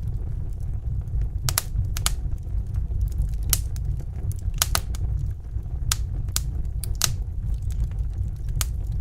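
Wood fire burning in a fireplace: a steady low rumble of flames with sharp crackles and pops at irregular moments, about a dozen in the span.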